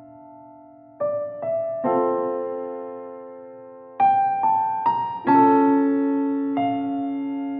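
Background piano music: a slow, gentle piece of single notes and chords, each struck and left to ring and fade, with a pause of about a second at the start.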